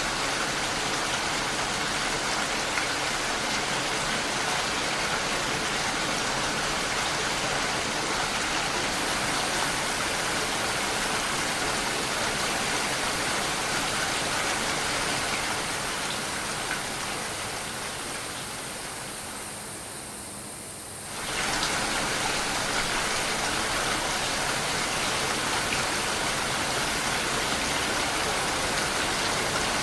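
Steady, dense rainfall hiss. It fades down for a few seconds past the middle, then comes back abruptly at full level.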